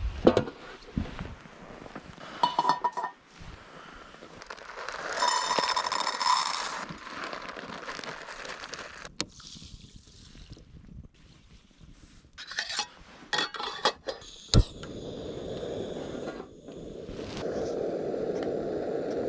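Handling sounds: a series of knocks and scrapes with ringing clinks, then a steady rushing noise from about three-quarters of the way in.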